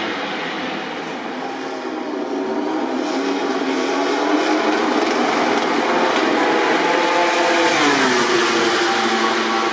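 A MotoGP race motorcycle's engine, growing louder and climbing in pitch as it approaches, then dropping in pitch as it passes about eight seconds in.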